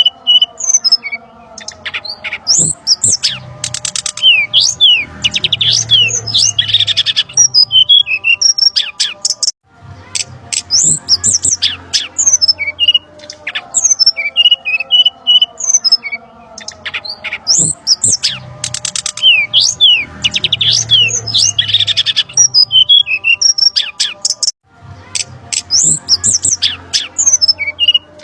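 Looped bird-lure recording of brown-chested jungle flycatcher calls: dense high chirps, quick whistled glides and squawks. The same stretch repeats about every 15 seconds, with a brief drop-out between loops.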